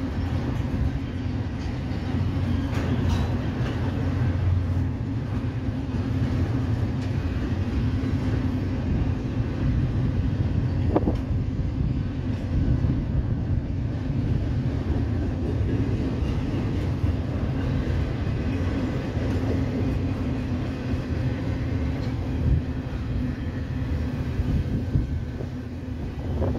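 Freight train of intermodal well cars with containers rolling past, a steady rumble of wheels on rail, with a brief high-pitched note near the middle.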